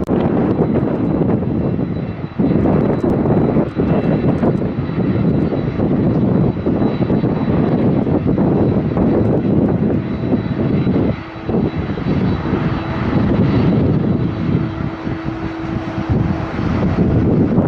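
Passenger jet airliner's engines running as it takes off or lands, a loud, dense rush with a faint steady high whine and a lower steady hum joining in the second half. Strong gusty wind buffets the microphone.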